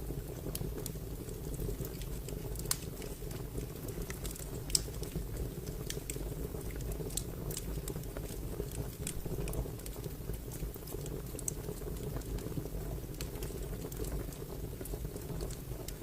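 Fire crackling: irregular sharp pops and snaps over a steady low rumble of burning, with two louder pops about three and five seconds in.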